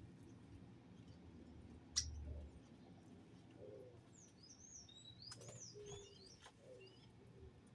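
Small birds chirping in quick, short gliding calls, bunched about four to seven seconds in, with one sharp click about two seconds in.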